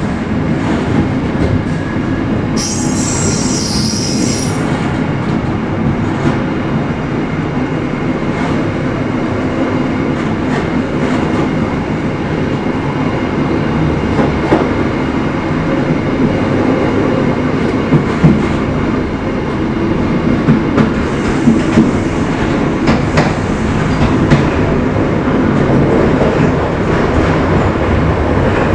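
Passenger train running on rails: a steady rumble of the wheels on the track, with sharp clicks as the wheels pass over rail joints and points, more frequent and a little louder in the second half. A brief high hiss comes about three seconds in.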